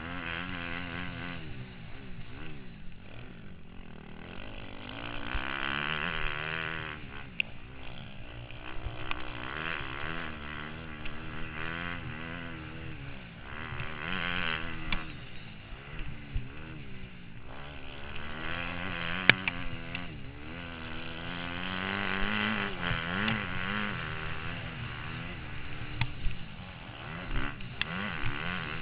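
Motocross bike engine revving up and down over and over as the rider works the throttle and gears, heard from the rider's helmet. A few sharp knocks cut in, the loudest about two-thirds of the way through.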